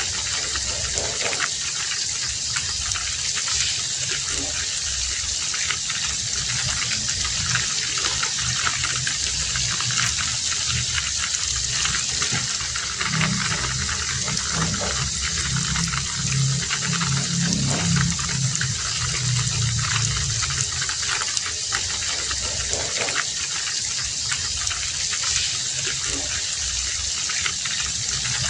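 Heavy rain falling steadily, with water running and splashing. A low rumble swells in the middle.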